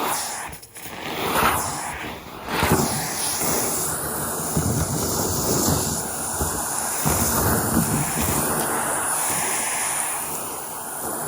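Henry vacuum cleaner running with its suction rushing as it picks up debris from the floor. The sound drops briefly twice in the first few seconds, then runs on with small swells.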